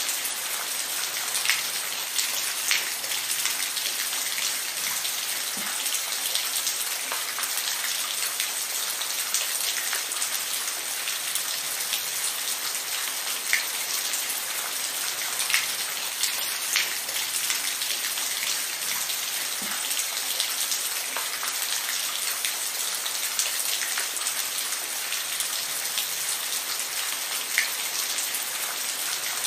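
Steady rainfall: an even hiss with close, individual raindrops ticking sharply on a surface.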